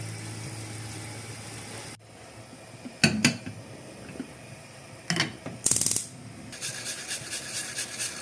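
Household objects being handled: a few sharp clicks, a short rattle, then a fast run of light ratchet-like ticks.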